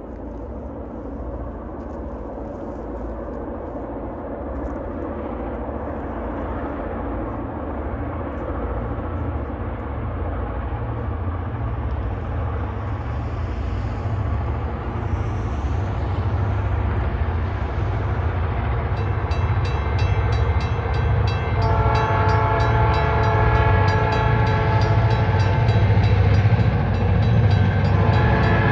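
Approaching diesel freight train, its low engine rumble growing steadily louder. About two-thirds of the way in, a level-crossing bell starts ringing with a regular beat. Soon after, the locomotive sounds a long chord-horn blast for the crossing, and another blast begins near the end.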